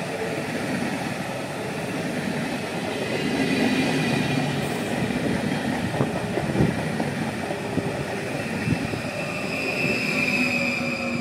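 Intercity passenger train pulling into the station, wheels rumbling and clicking over the rails, with a high wheel or brake squeal strongest near the end.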